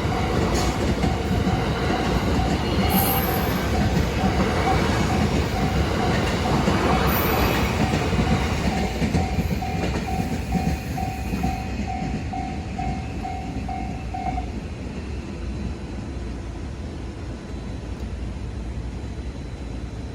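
A train running over a level crossing, wheels rumbling and clattering on the rails, while the crossing's electronic warning bell rings about twice a second. The train noise dies away about halfway through, and the bell stops about three-quarters of the way in.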